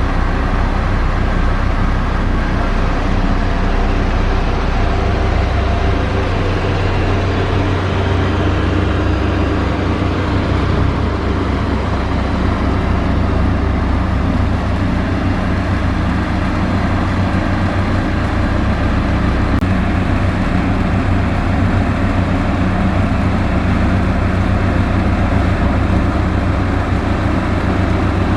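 Heavy diesel construction machinery running steadily: a continuous engine drone with a low rumble and the broad noise of work on gravel.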